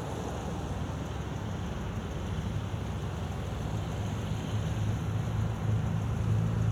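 An approaching freight train hauled by an Sr1 electric locomotive: a low hum and rumble that grows steadily louder as it nears.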